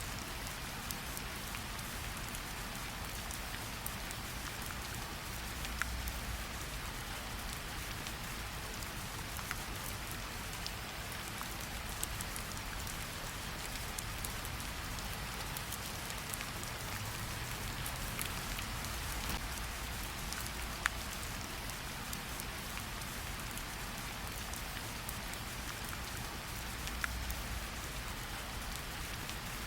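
Steady rain falling on leaves and wet ground, with a few sharper single drops ticking out above the hiss.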